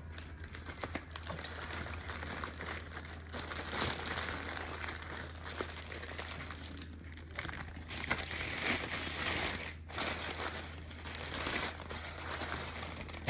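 Close, continuous crinkling and crackling that swells and dips, over a steady low hum.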